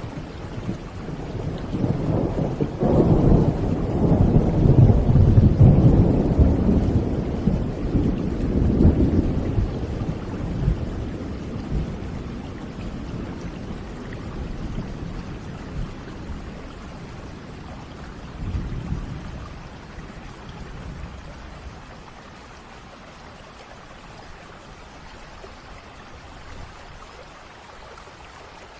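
Thunder rumbling over steady rain: a clap breaks about three seconds in and rolls on for several seconds before fading, a softer rumble follows later, and the rain hiss carries on underneath.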